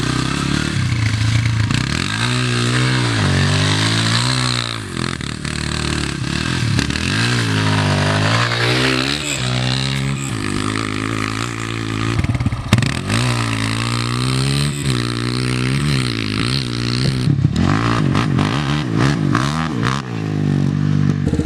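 Yamaha TT-R125 dirt bike's single-cylinder four-stroke engine being ridden, its pitch rising and falling over and over as the throttle is opened and closed, with a few knocks and clatter about halfway through.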